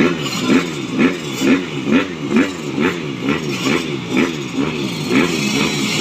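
Motocross bikes racing, their engines revving up again and again in quick rising sweeps, about two a second.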